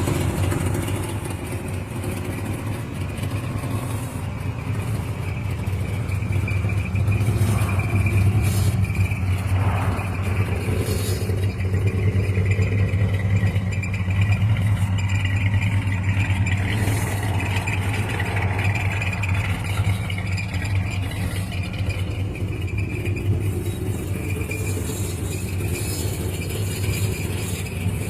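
Car engine running steadily, the 1966 Studebaker Cruiser's, with a deep even hum and light rattle.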